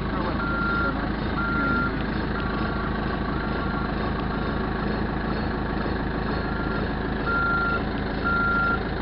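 Backhoe's reverse alarm beeping about once a second, each beep a steady single tone, over the machine's diesel engine running steadily.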